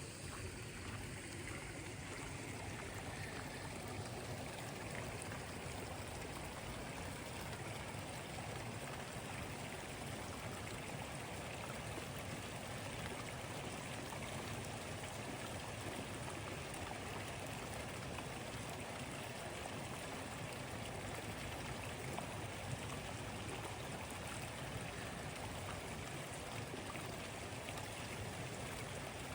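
Steady, even wash of water noise with no breaks or separate events, the sound of running water or rain.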